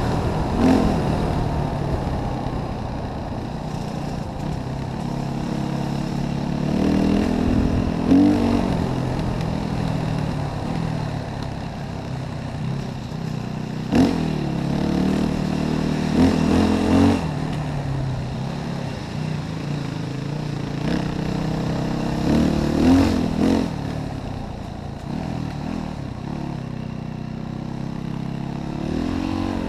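Yamaha WR450F single-cylinder four-stroke enduro motorcycle engine running and revving up in short bursts every few seconds, with some clatter and a sharp knock about halfway through.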